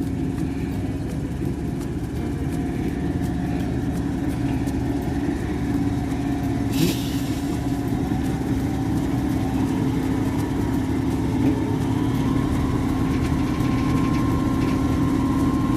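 A large engine idling steadily with a low, even hum. A higher tone steps up slightly about twelve seconds in, and there is one short click about seven seconds in.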